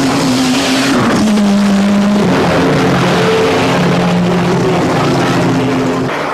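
Rally car engine running hard at high revs, its pitch changing in steps about a second in and again past two seconds.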